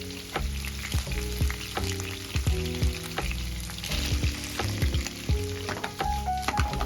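Bacon and potatoes sizzling in a frying pan, with many sharp clicks and scrapes of a utensil stirring and tossing them.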